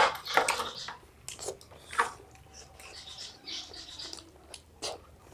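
Close eating sounds of ice cream and kulfi being bitten and chewed: a run of short, irregular mouth clicks and smacks.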